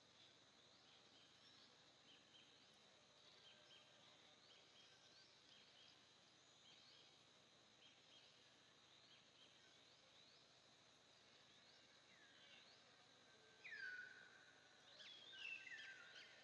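Faint outdoor background with small birds chirping: short high chirps repeat throughout, then a few louder descending whistled calls come near the end.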